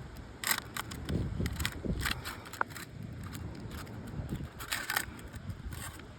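Irregular crackling and scraping as an asphalt roof shingle is slowly worked loose, its sealed edge tearing free, with many short clicks scattered throughout.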